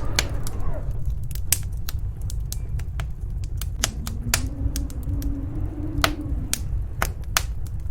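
Wood fire crackling with sharp, irregular pops over the low, steady rumble of storm wind. From about four seconds in, a howl of wind rises and falls for nearly three seconds.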